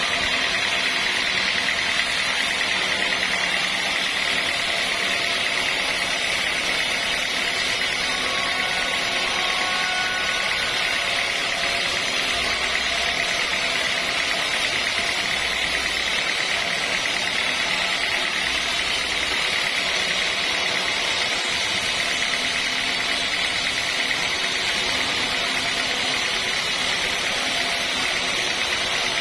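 Sawmill machinery running steadily, an even mechanical noise with a strong high hum that does not change.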